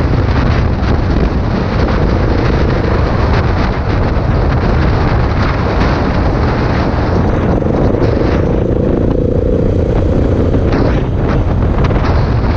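Adventure dirt bike being ridden, its big single-cylinder engine running under steady wind buffeting on the microphone. The engine note comes through more clearly a couple of seconds in, and again for a few seconds past the middle.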